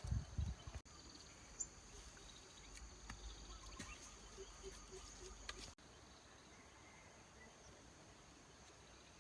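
Faint, steady high-pitched insect drone in the background, with a few low thumps in the first second and scattered small clicks. The sound cuts out briefly twice, about a second in and near six seconds.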